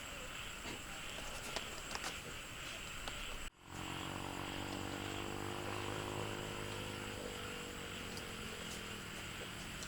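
Clicks over a steady high outdoor hiss, then, after a sudden break, a motor running with a steady low hum that fades out over several seconds.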